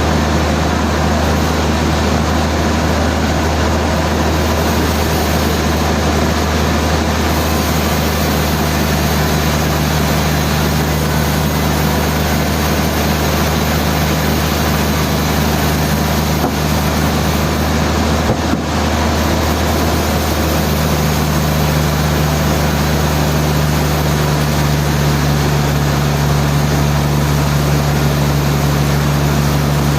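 Sawmill machinery running steadily with a loud, low, droning hum; the hum changes pitch about two-thirds of the way through.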